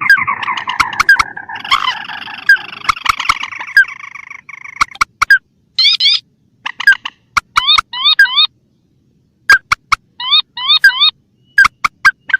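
Lure-call recording of wetland rails, swamphen and crake calls: a dense overlapping chorus of calls for the first few seconds, then short, sharp hooked call notes repeated in quick groups of two or three with brief gaps between.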